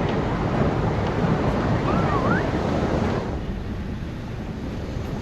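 Loud rushing wind noise buffeting the microphone, which drops to a duller, quieter rush about three seconds in.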